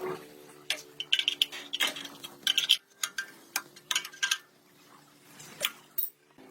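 Irregular runs of light clicks and clinks, like small hard objects knocking together, over a faint steady hum.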